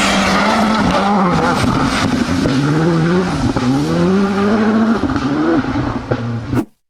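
Rally car engine running hard at high revs. The revs hold at first, then drop and climb again three or four times as the driver lifts and gets back on the throttle. The sound cuts off suddenly near the end.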